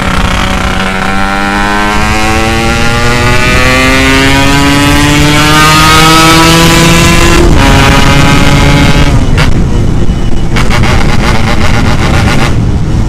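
Yamaha RX-King two-stroke single-cylinder motorcycle with a modified 'setengah dewa' aftermarket exhaust, accelerating hard with the pitch climbing steadily for about seven seconds, dropping sharply at a gear change, then the throttle closes and the exhaust crackles and pops irregularly.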